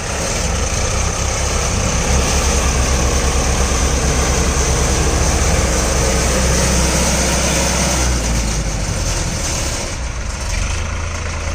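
Diesel tractor engine running hard, a loud low pulsing that eases off about eight seconds in.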